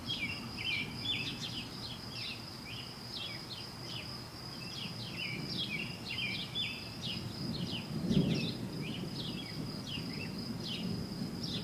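A distant, constant low roar, almost thunderous and like a great rushing of wind, that seems to come from the whole sky and swells louder about eight seconds in. Birds chirp repeatedly over it and a steady high insect drone runs underneath.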